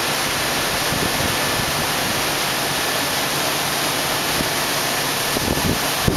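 Heavy rain pouring down in a steady downpour, with low gusts of wind rumbling near the end.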